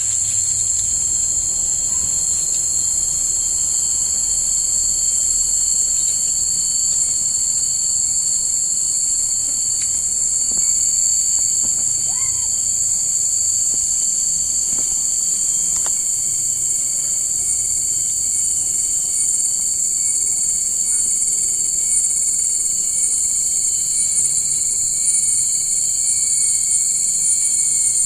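Chorus of insects, several steady high-pitched buzzing trills layered over one another without a break.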